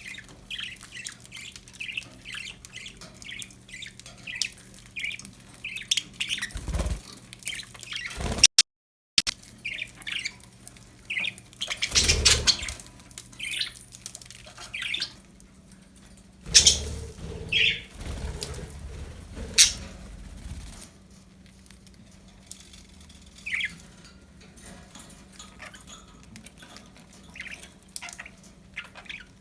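Pet budgerigars chirping and warbling in a steady stream of short, high chirps, with a few louder rustles and bumps along the way and a brief cut-out of all sound about a third of the way through.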